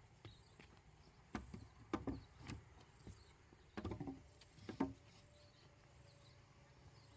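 A handful of short knocks or clatters, about five in three and a half seconds, then only faint background.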